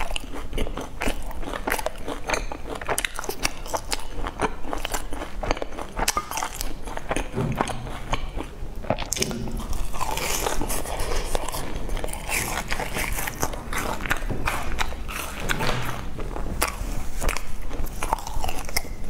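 Close-miked biting and chewing of a crisp, sesame-crusted fried pastry dipped in sauce: many irregular crunchy crackles and wet mouth sounds.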